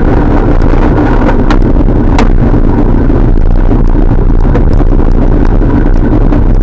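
Loud steady rush of wind and road noise on the microphone of a camera riding on a moving bicycle, with a few faint ticks.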